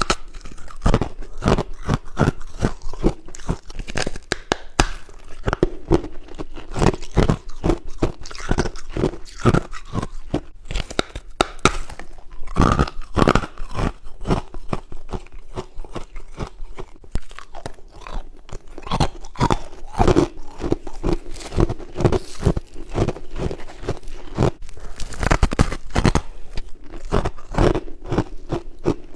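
A person biting and chewing humidifier frost, soft white frost ice, close to the microphone: a fast, continuous run of crunches, several a second, with hardly a pause.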